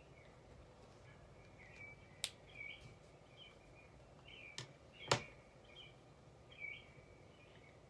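Birdsong ambience: small birds chirping in short, repeated calls. Three sharp clicks are heard about two, four and a half and five seconds in, the last the loudest.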